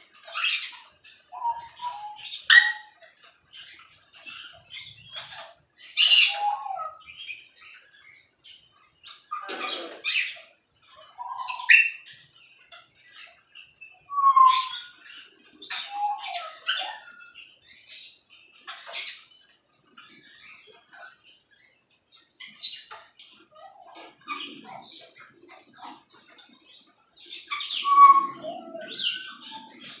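Several birds calling: a scatter of short chirps and squawks, some sharp and high, some lower, coming irregularly throughout, with the loudest calls about 6, 12, 14 and 28 seconds in.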